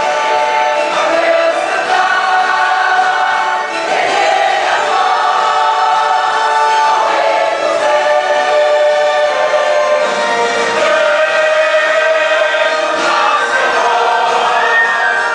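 A choir singing a Christian praise song in held, sustained notes.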